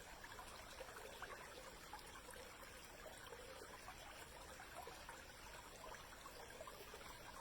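A small woodland brook trickling faintly: a steady, even babble of running water.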